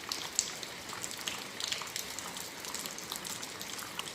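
Steady heavy rain falling, with many scattered drops and splashes ticking on hard surfaces.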